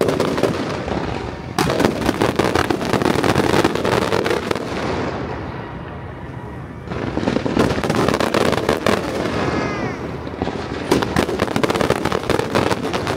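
Fireworks and firecrackers going off in dense, rapid crackling volleys. There are three surges: about a second and a half in, about seven seconds in, and about eleven seconds in.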